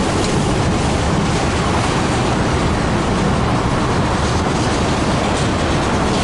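Freight train rolling past, a loud steady rumble of wheels on rail with faint clicks.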